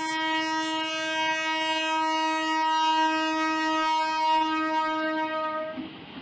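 A horn blowing one long, steady note for nearly six seconds, then stopping shortly before the end.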